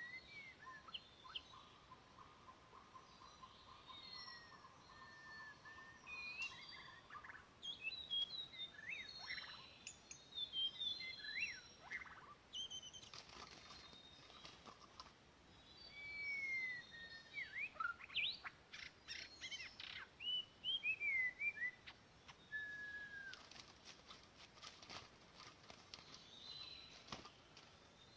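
Songbirds singing in forest: a varied run of clear whistled notes and down-slurred phrases, with a buzzy trill through the first several seconds.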